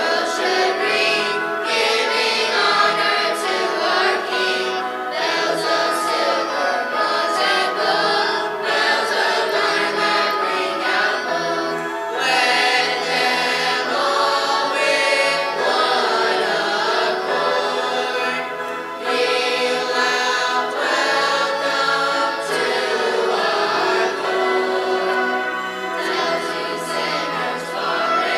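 A choir singing a Christmas song with musical accompaniment, with brief pauses between phrases about twelve and nineteen seconds in.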